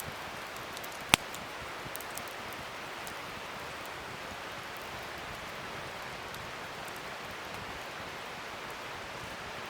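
Wood fire crackling over a steady hiss, with one loud sharp pop about a second in and a few small snaps after it.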